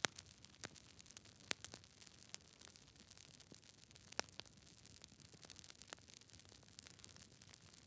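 Campfire burning faintly: irregular sharp crackles and pops over a soft hiss, with louder pops right at the start, about a second and a half in and about four seconds in.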